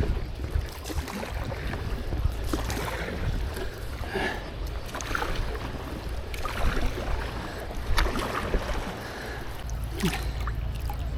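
Wind buffeting the microphone over water lapping against a small paddle craft, with scattered knocks and splashes throughout.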